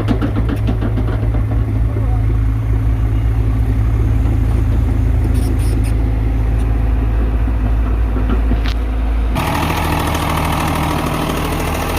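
Diesel tractor engine running steadily under load. About nine seconds in, the sound changes abruptly to a harsher, noisier running.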